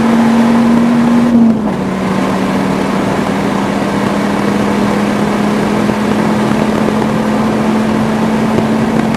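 Dodge Viper V10 engine pulling hard, heard from inside the cabin. About a second and a half in there is a brief lift and a gear change, the engine note stepping down in pitch. It then pulls steadily again until the sound cuts off at the very end.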